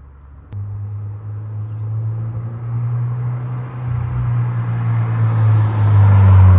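2022 Subaru BRZ's 2.4-litre flat-four running through an MXP Comp RS catback exhaust: a low, steady exhaust drone that comes in suddenly about half a second in and grows louder toward the end.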